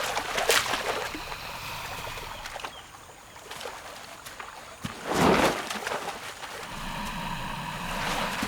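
Water splashing and sloshing from a jaguar and the caiman it has just seized by the skull. There are two louder splashes, about half a second in and about five seconds in.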